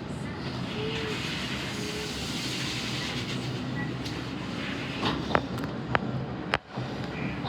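Sydney electric commuter train running on the track: a steady rumble of wheels on rail, with a few sharp clicks in the second half.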